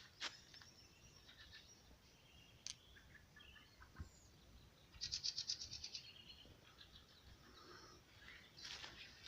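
Quiet forest with faint bird calls: a few small chirps and, about five seconds in, a short rapid high trill of about ten notes a second. Footsteps start again near the end.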